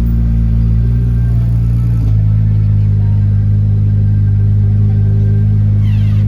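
A car engine running at a steady low speed, a loud, even rumble that changes its note slightly about two seconds in.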